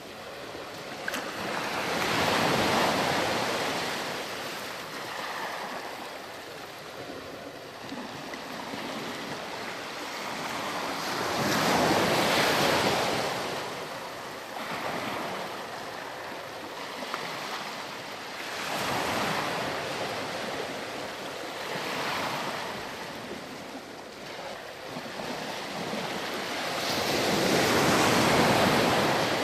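Sea waves breaking and washing up on a sandy beach: the surf rises and falls in about five slow surges, and the loudest comes near the end.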